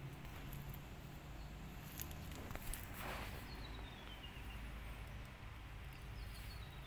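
Quiet outdoor garden ambience: a low steady rumble, a few light clicks and a brief rustle about three seconds in. A songbird twice sings a run of short high notes that step down in pitch.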